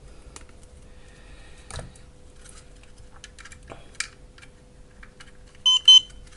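Scattered light clicks and taps from handling small parts, then two short, loud electronic beeps from a test meter near the end.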